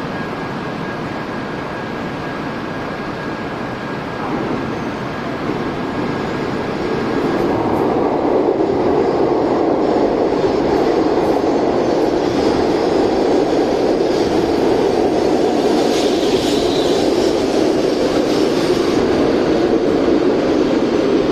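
Tokaido Shinkansen train pulling in alongside the platform. Its rushing noise builds from about four seconds in and is steady and louder from about eight seconds on.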